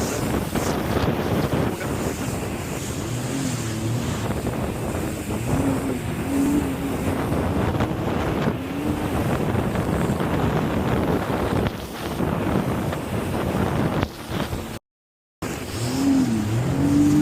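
Jet ski engine running under way, its pitch wavering up and down, with wind buffeting the microphone and water rushing. The sound cuts out briefly near the end.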